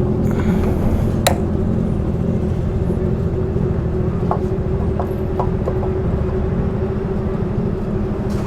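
A motorcycle engine idling steadily, with one sharp click about a second in and a few light clicks later on.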